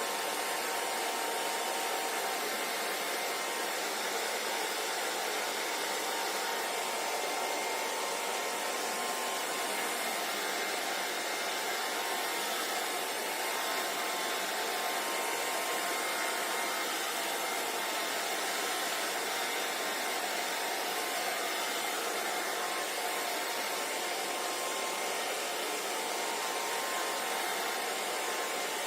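Hair dryer blowing steadily, an even rushing whoosh of air with a faint motor whine running through it.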